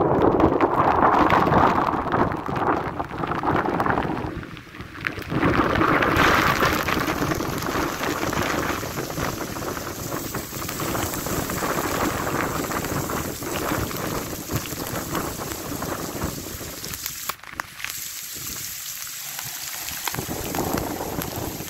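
Torrential rain pouring onto a street with gusting wind, a steady rushing hiss that is loudest for the first four seconds or so.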